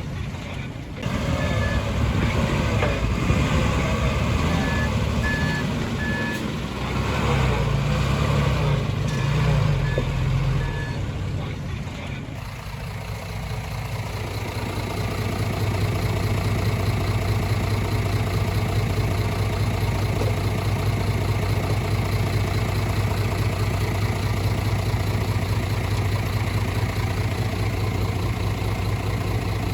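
Heavy diesel earthmoving machinery running, with a back-up alarm beeping in short spells during the first ten seconds or so. About twelve seconds in, the sound changes abruptly to a steady engine drone.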